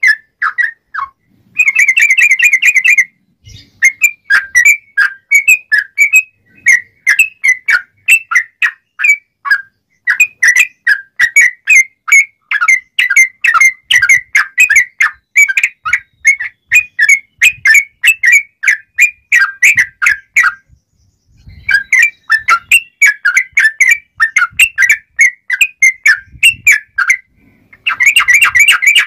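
Yellow-vented bulbul (trucuk) singing in full 'ngobra' song: long runs of quick, clear, bubbling whistled notes, broken by a few short pauses and one longer break about two-thirds of the way through.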